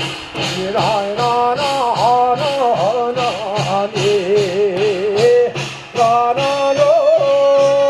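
Korean shamanic ritual (gut) music: a wavering melodic line with wide vibrato, settling into a long held note near the end, over steady percussion strikes about two to three a second.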